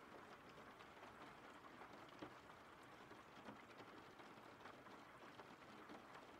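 Faint, steady rain, with scattered individual drops ticking through it.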